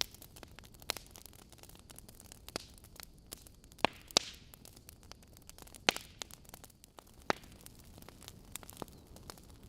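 Wood fire burning in a fireplace: irregular crackles and sharp pops from the burning logs over a low steady hiss, with the loudest pops about four seconds in, near six seconds and once more about seven seconds in.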